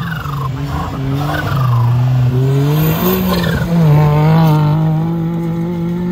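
Suzuki Jimny competition car's engine revving hard as its wheels spin in loose dirt, the pitch dropping and rising several times before it pulls steadily away.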